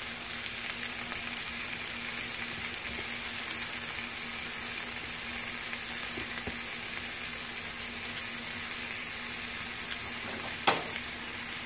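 Slices of meatloaf sizzling steadily in a little oil in a nonstick ceramic frying pan, with a single sharp click near the end.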